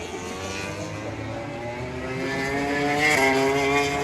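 MotoGP racing motorcycle accelerating, its engine note climbing steadily in pitch and growing louder, with a jump up in pitch about three seconds in.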